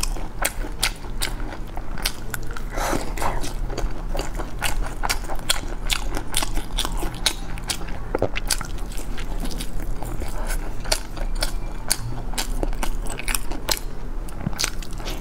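A person biting and chewing battered, pan-fried eggplant boxes stuffed with chive and egg: a steady run of short crunchy clicks from the mouth.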